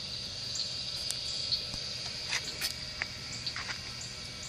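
Steady high-pitched insect chirring, with a few short chirps and clicks over it.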